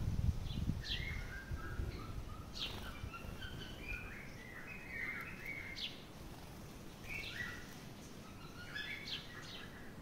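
Birds calling: repeated chattering, warbling notes with several sharp, high, downward-sweeping calls mixed in, over a low rumble that fades in the first second.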